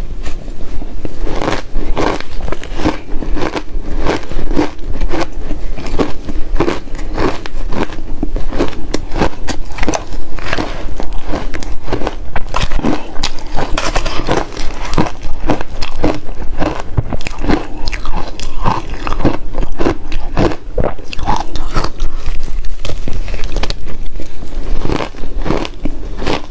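Ice being bitten and chewed close to the microphone: a dense, rapid run of loud crunches and crackles as the cubes break between the teeth.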